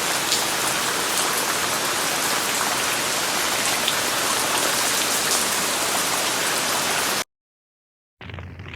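Steady rain falling, an even hiss with scattered small drop ticks, which cuts off abruptly about seven seconds in; a second of silence follows.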